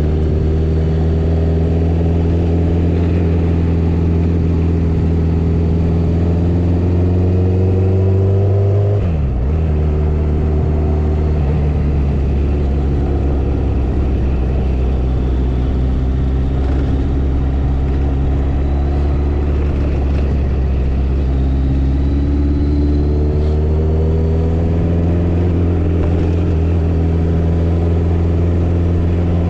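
Motorcycle engine running while riding, its pitch climbing slowly as it gathers speed. The pitch drops suddenly about nine seconds in, holds steady, then climbs again near the end.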